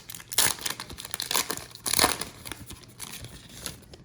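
Plastic wrapper of a baseball card pack crinkling and tearing as it is worked open by hand, in several crackly bursts.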